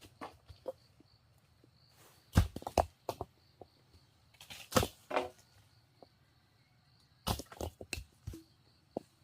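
Scattered sharp knocks and cracks of wood being worked by hand, a handful of separate hits with gaps between them, over a faint steady insect trill.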